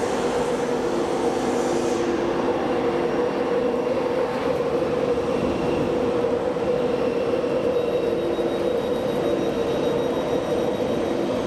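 A train standing at a station platform, its equipment humming steadily with several low steady tones and no change in level. A faint high whine joins about eight seconds in.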